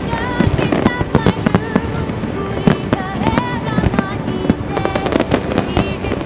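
Fireworks going off in rapid succession, a dense string of bangs and crackles, with music playing along.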